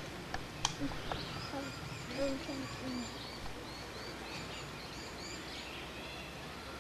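Small birds chirping and singing repeatedly over a steady background hiss, with faint distant voices in the first few seconds and a single sharp click a little under a second in.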